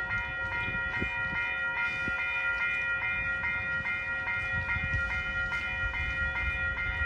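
GO Transit commuter train arriving at a station, its low rumble running under a bell ringing steadily at about three strokes a second.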